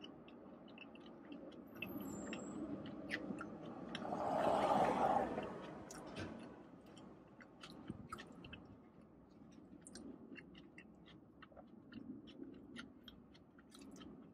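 Close-up chewing of a mouthful of rice, chicken and lettuce, with many small mouth clicks and fork taps against the bowl. About four seconds in, a rushing swell rises and fades over about two seconds, louder than the chewing.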